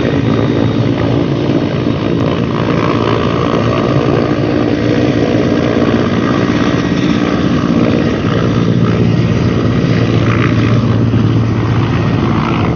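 Helicopter rotor and engine running steadily and loudly throughout.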